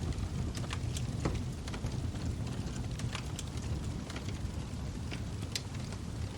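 Log fire burning: a steady low rumble of flames with irregular sharp crackles and pops, several a second, the loudest about five and a half seconds in.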